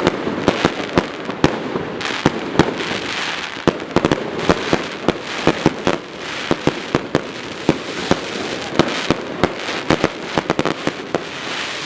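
Fireworks going off: a rapid, irregular string of sharp bangs, several a second, over a continuous noisy background.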